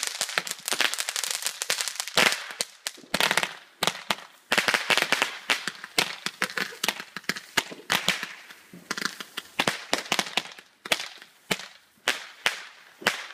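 Consumer ground fireworks going off on a lawn: a dense crackling spray at first, then many sharp pops and bangs in quick irregular clusters, thinning out toward the end.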